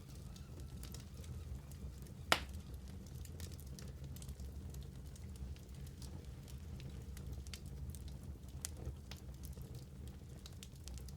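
Wood fire burning in a fireplace: scattered small crackles and snaps over a steady low rumble, with one sharp, louder pop a little over two seconds in.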